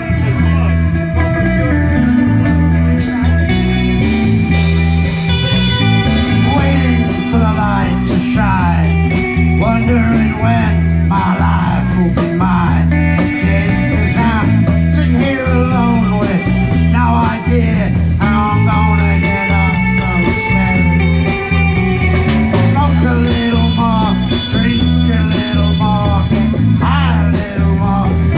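Live rock band playing loudly: electric guitar over bass guitar, drums and percussion, with bending melody lines in the middle stretch.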